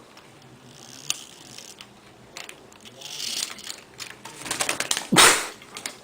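Pet bird's beak clicking and scraping on a pair of eyeglasses: scattered sharp clicks with some rustling, a quick run of clicks, then a loud short thump about five seconds in.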